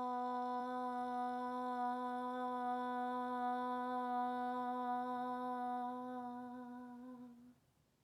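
A woman's meditative hum on "ma", one long note held at a steady pitch, fading and stopping a little before the end.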